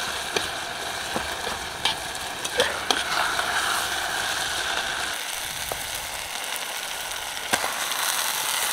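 Chicken pieces sizzling in hot oil and masala in a steel pot over a campfire: a steady hiss, with a few sharp pops through it.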